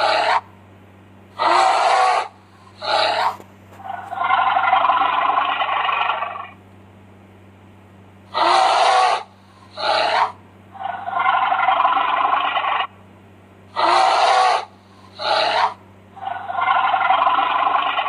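An animal calling: the same harsh sequence repeats three times, two short calls followed by a longer rasping one about two seconds long, over a steady low hum.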